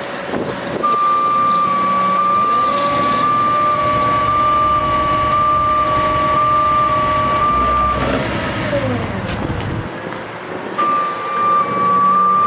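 Bucket truck engine running, with a steady high-pitched electronic alarm tone sounding over it. Around 8 s in the engine pitch drops and the tone stops; both come back near the end.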